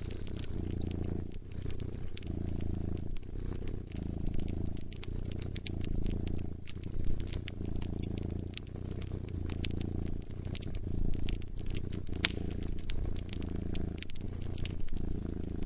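A cat purring in a steady rhythm of long pulses, with a wood fire crackling in many sharp pops over it.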